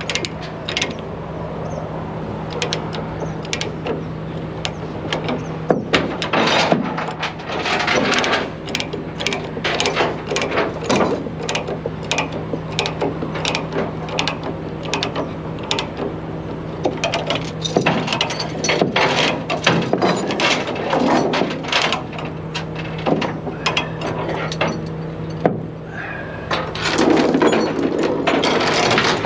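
Ratchet tie-down being cranked to tighten the load's securement, clicking in quick runs with pauses between. A steady low hum runs underneath.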